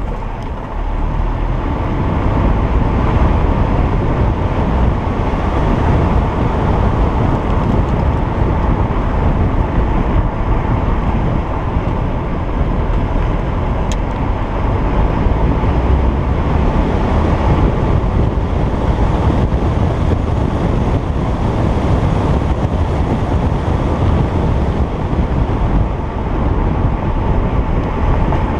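Stock Alfa Romeo Giulietta Quadrifoglio Verde's 1750 turbocharged four-cylinder engine running steadily as the car drives on, with a low rumble of road and wind noise on the on-board camera microphone.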